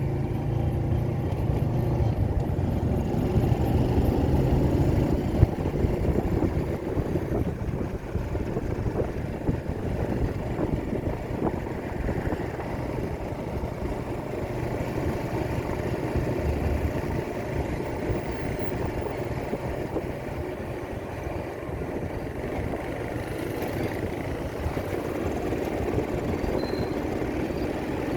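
Motorcycle running steadily while being ridden along a road, its engine mixed with a rough low rumble of wind and road noise.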